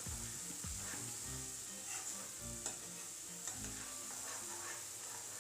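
Onion, garlic and green chilli paste sizzling in hot oil in a pan while it is stirred, with a few light scrapes of the spoon on the pan. This is the masala being roasted (bhuna) until it turns grainy and cooked through.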